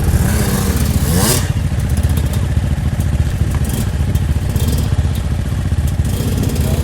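Dirt bike engine running steadily, its pitch rising once about a second in as the throttle is opened.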